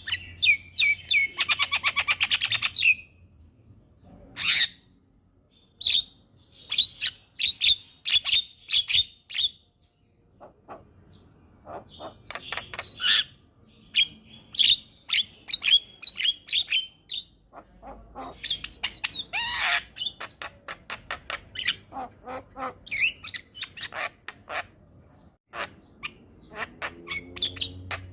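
Javan myna singing in bursts of rapid chattering clicks and harsh squawky notes, with short pauses between phrases.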